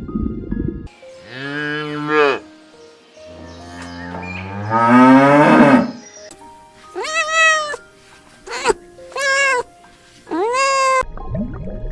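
A cow mooing twice, a short call and then a long one that rises in pitch, followed by a cat meowing several times.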